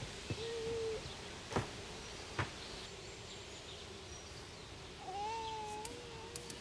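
Honeybees buzzing close by, the pitch wavering as they fly near, over an open hive during a frame inspection. Two sharp knocks from the hive frames come in the middle.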